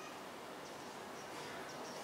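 Several faint, short, high-pitched bird chirps, mostly in the second half, over a steady outdoor background hiss.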